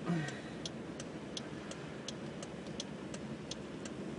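Steady, even ticking inside a slow-moving car, about three ticks a second, over low road noise, with a brief low sound about a tenth of a second in.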